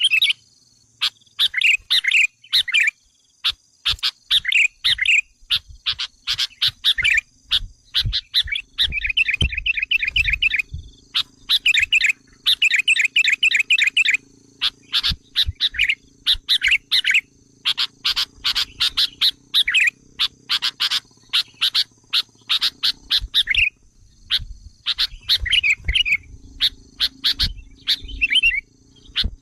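Sooty-headed bulbul (kutilang) lure call: quick, chattering call phrases repeated over and over about once a second, with sharp clicking notes between them. This is the agitated, noisy calling that is used to provoke wild bulbuls.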